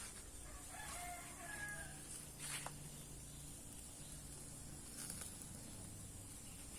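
A rooster crowing once, faint, about a second in, with a couple of short clicks or knocks afterwards.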